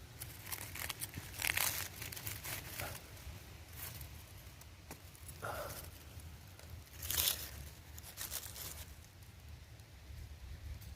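Rustling and crackling noises in several short bursts, with fainter rustling between them.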